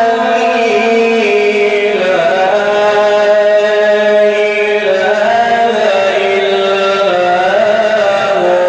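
A man reciting the Quran in a melodic, chanted style, holding long ornamented notes that step up and down in pitch without a break.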